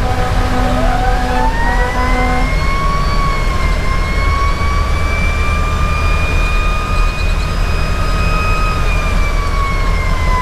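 Federal Q2B mechanical siren on a fire engine winding up into a long rising wail, holding high, then starting to wind down near the end, over the steady drone of the truck's diesel engine. A short on-off beeping tone sounds for the first couple of seconds.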